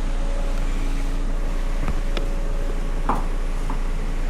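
Steady low engine hum of an idling vehicle, with a higher steady tone that stops a little over a second in and a few light clicks and short squeaks about two and three seconds in.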